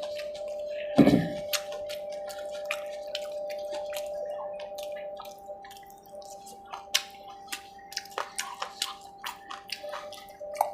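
Eating sounds: many quick wet clicks of chewing and lip smacking, with a single loud thump about a second in, over a steady humming tone.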